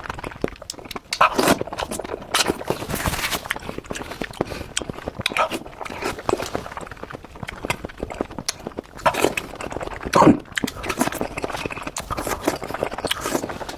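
Close-miked eating: chewing and crunching of food with many wet clicks and smacks, and a few louder crunches scattered through.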